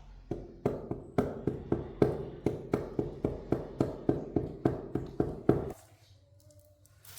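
A mallet tapping floor tiles down to bed and level them, in a quick, even series of about four strikes a second that stops abruptly after about five seconds.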